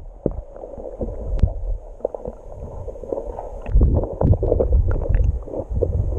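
Water heard through a submerged waterproof camera housing: muffled low rumbling and gurgling with scattered small clicks and knocks, growing louder about two-thirds of the way through.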